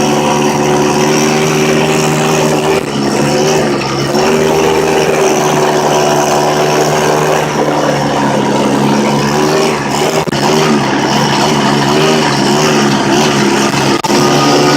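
Pocket bike's small two-stroke engine running steadily, its pitch wavering slightly now and then.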